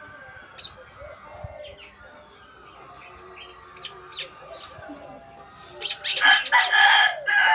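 Pet bird calling: a few short, sharp, high chirps, then a loud, harsh call of about two seconds near the end.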